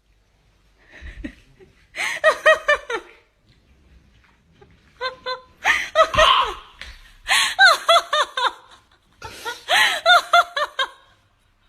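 A person laughing hard in several bursts of quick, high-pitched giggles, each bout breaking off and starting again.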